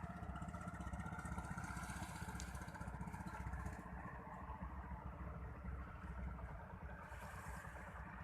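Small single-cylinder engine running steadily at cruising speed, with a rapid even firing pulse, while the vehicle or boat it drives is under way. A hiss of wind or water rises and falls over it.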